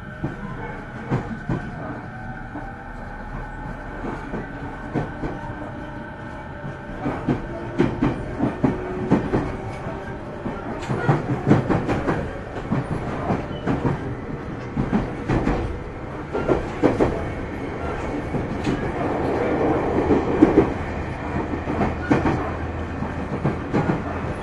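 JR 209 series electric train heard from inside a motor car: the traction motors whine in tones that glide upward as the train picks up speed. Wheels clack over rail joints, the clacks coming louder and quicker in the second half.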